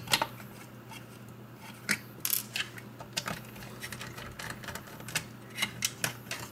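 Scattered small clicks and taps of a Phillips screwdriver and screws being worked out of the plastic bumper sensor mounts of an iRobot Roomba 500-series vacuum, over a steady low hum.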